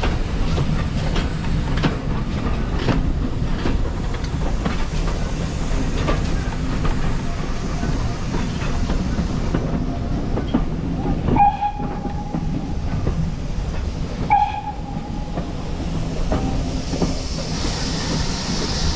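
Heritage steam train running along the line: a steady rumble with wheels clicking over the rail joints. Two short high tones come about three seconds apart midway, and a hiss builds near the end.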